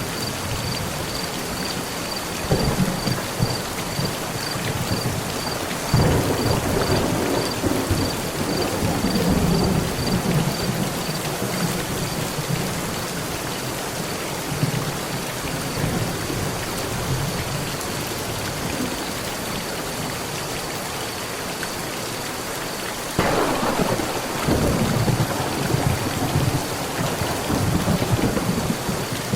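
Steady heavy rain on a metal roof with rolling thunder: a rumble about two seconds in, a louder peal about six seconds in that rolls on for several seconds, and a sharp thunderclap late on that rumbles to the end.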